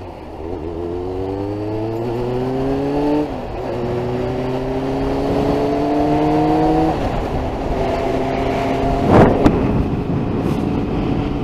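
Inline-four sportbike engine under way, pulling up through the gears. Its pitch rises, drops at a shift about three seconds in, rises again and drops about seven seconds in, then holds steady, with wind rushing over the bike. A short loud rush of noise comes about nine seconds in.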